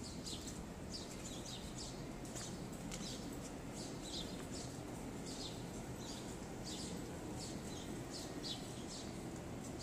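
Small birds chirping in trees: short high chirps about twice a second, over a steady low background hum.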